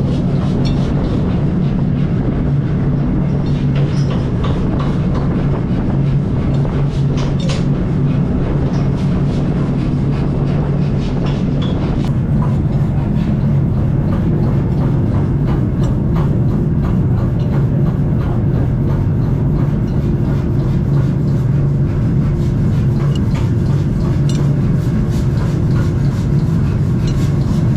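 Steady low mechanical drone with many small clicks and knocks scattered over it.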